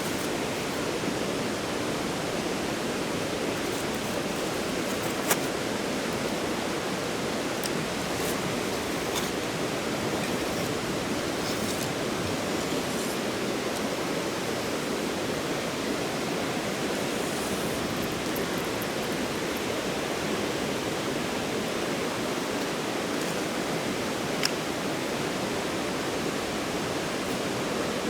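Steady rush of a stream's moving water, an even wash with no changes, broken only by a couple of faint clicks.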